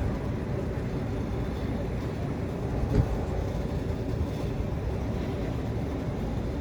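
Steady low engine and road noise inside the cab of a running truck, with a single short knock about three seconds in.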